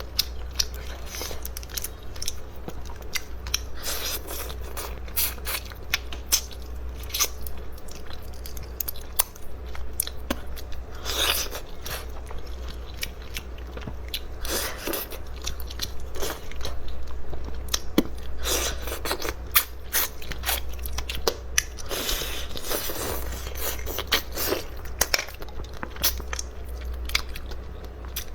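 Close-miked eating of seafood: chewing and crunching, with frequent sharp clicks and cracks.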